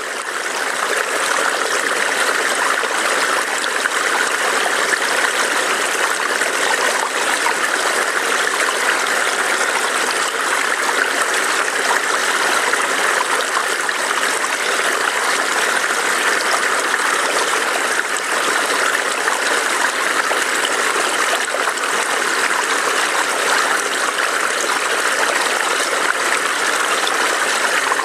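A burbling forest stream: water flowing and splashing over rocks in a steady, dense rush.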